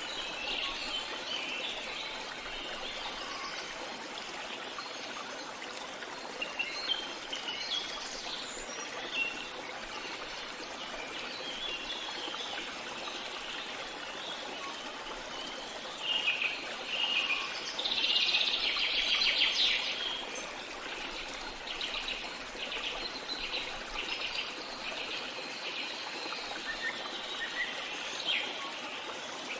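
Wild birds chirping and singing over a steady background of running water, with a louder spell of song a little past halfway.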